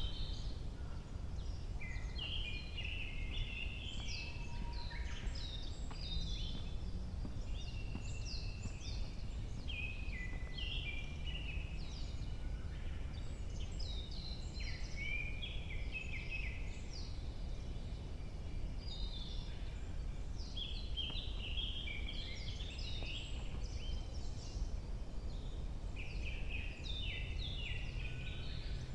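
Several wild birds singing in a forest in early summer: many short chirps, trills and repeated notes overlapping all through, over a steady low rumble.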